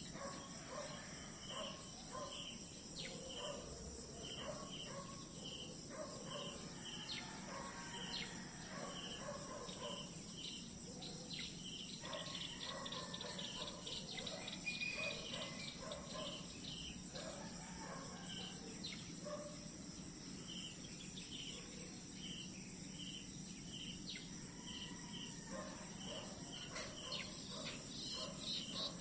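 Crickets and other insects chirping steadily: a continuous high drone with repeated short chirps about once or twice a second, and other faint calls lower down.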